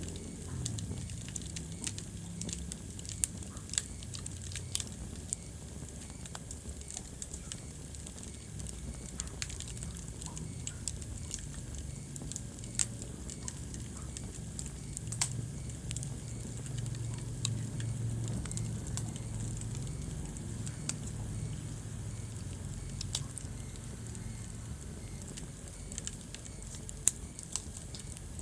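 Wood fire burning in a fireplace: scattered sharp crackles and pops over a low steady rumble of the flames.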